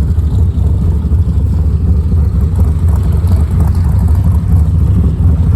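1961 Ford Falcon's straight-six engine running with a steady, loud low rumble.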